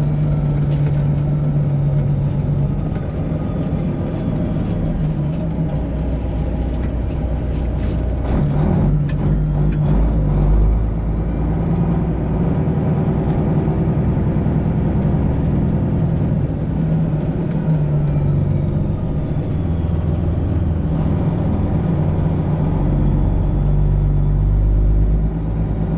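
Semi truck's Detroit Diesel 12.7-litre engine running as the truck is driven, heard from the cab, its note steady but shifting in pitch and strength a few times. A few short clicks or knocks come about eight to ten seconds in.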